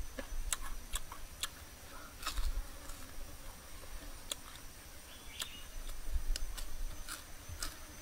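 A person chewing a mouthful of roasted food close to the microphone, with sharp wet mouth clicks and lip smacks coming irregularly, about one a second.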